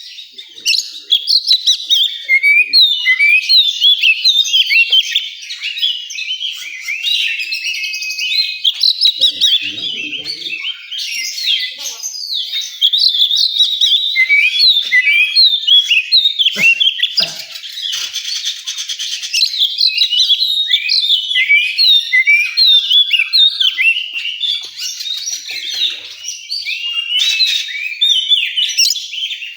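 Oriental magpie-robin song: a dense, nearly unbroken run of quick, varied whistles and chirps.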